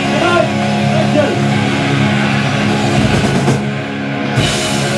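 Live rock band playing loud through powerful amplifiers in a small room: distorted electric guitar holding sustained chords over bass and drums, with a cymbal crash about four and a half seconds in.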